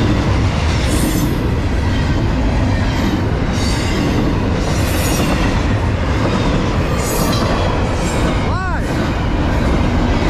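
CSX double-stack container train rolling past close by at speed: a steady rumble of steel wheels on the rails, with high wheel hiss and squeal swelling every second or two as the cars' wheel trucks go by.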